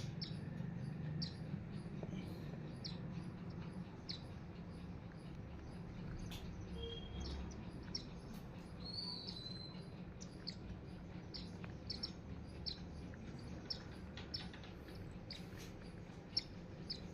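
Sparrows chirping at a feeder: short, high chirps repeated about once a second, coming closer together later on.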